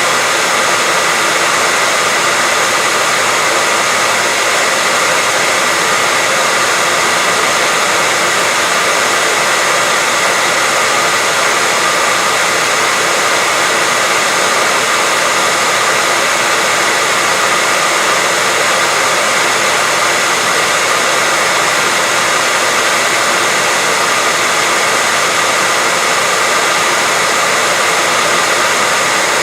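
Continuous white-noise hiss, loud and completely steady, weighted toward the high end, with a faint steady whistle running through it.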